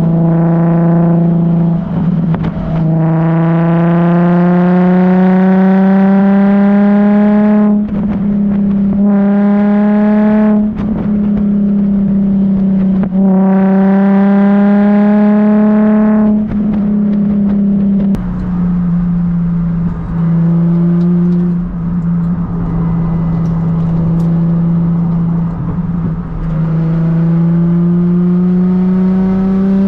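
Nissan 350Z's V6 through an ISR Performance aftermarket exhaust, accelerating through the gears: the engine note climbs steadily for a few seconds, then drops at each shift, several times over, over a constant low drone.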